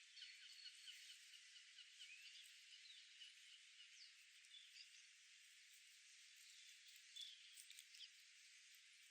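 Faint songbirds chirping over a steady outdoor hiss, with a rapid trill in the first few seconds and scattered single chirps after.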